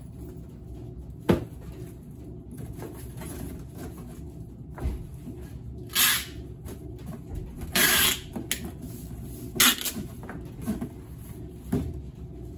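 Parcel being packed by hand: a sharp knock about a second in, then three short, loud rasping bursts of packaging noise over a low room hum.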